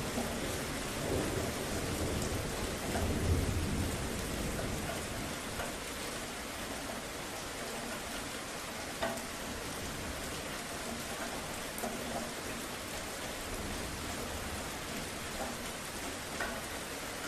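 Steady rain falling, with a low rumble of thunder that swells about three seconds in and then fades away. A few louder single drops stand out later.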